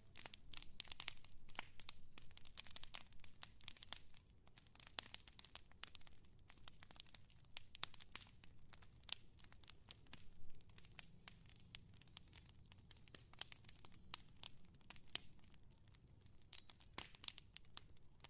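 Fire crackling: irregular sharp pops and snaps over a soft low hiss, busier in the first few seconds.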